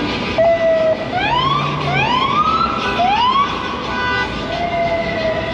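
Emergency vehicle siren sounding over traffic noise: a steady tone starting about half a second in, then a few rising sweeps in quick succession, then a held steady tone again before another sweep near the end.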